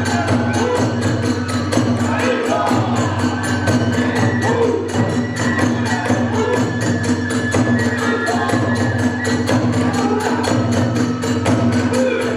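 Kagura accompaniment (hayashi): a fast, steady beat of drum and small hand cymbals (tebyoshi), with a flute line over it.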